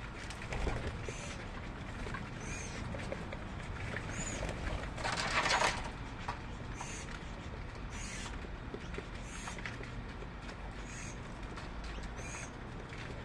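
Birds calling: a short, high chirp repeated about every second and a half, with a brief rustle about five seconds in, over a low steady hum.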